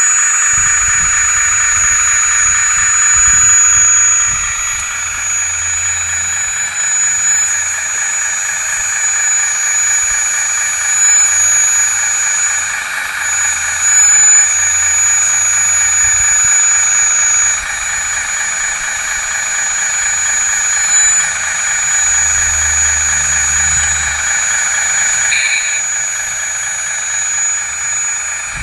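Hydraulic pump of a 1/16 scale RC wheeled excavator whining steadily at a high pitch, with a thin constant high tone over it and low rumbling that comes and goes as the machine works.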